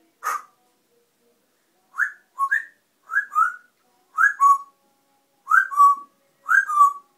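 Parrot whistling: one short sharp call, then a repeated two-note whistle, a higher note falling to a lower, held one, about once a second.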